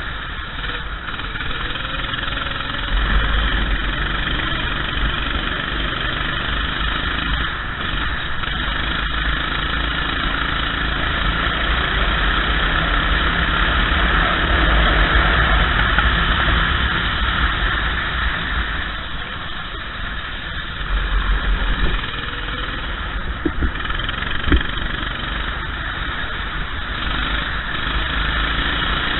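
Go-kart engine running at race pace, its pitch rising and falling with the throttle, under a steady rushing noise.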